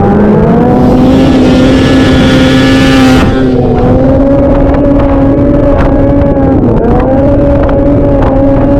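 Vintage two-stroke snowmobile engine running hard at high revs, its pitch climbing a little at first, holding steady, then dipping briefly and picking back up about seven seconds in. Sharp knocks and clatter come through in the second half.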